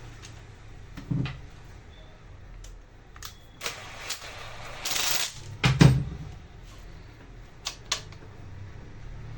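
Workbench handling noises: scattered clicks and knocks of parts and tools being set down and fitted. A brief scraping rustle comes about five seconds in, and a heavier thud follows just before six seconds; there is no motor running.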